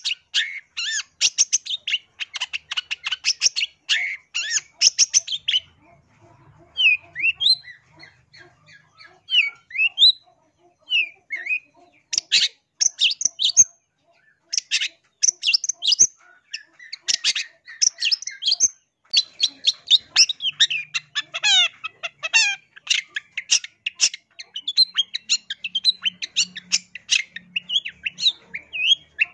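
Long-tailed shrike (cendet) singing: rapid harsh chattering notes in dense runs, with a sparser stretch of short rising notes in the middle before the fast chatter resumes.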